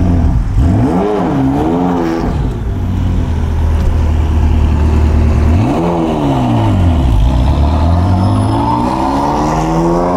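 Ferrari F40's twin-turbocharged V8 idling, blipped twice in quick succession, revved once more a few seconds later, then accelerating with its pitch climbing steadily toward the end.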